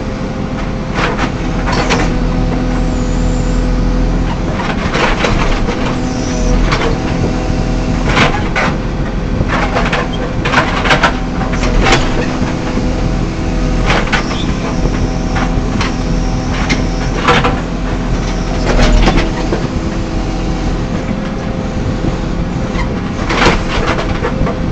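JCB 3CX backhoe loader's diesel engine running steadily under work, with repeated irregular metal clanks and knocks from the machine.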